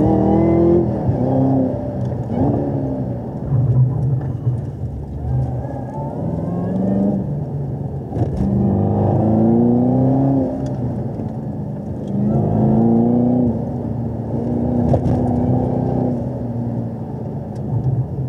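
V8 sports car engine pulling in second gear, its pitch rising as it revs toward about 4,500 rpm and dropping as the throttle lifts, several times over.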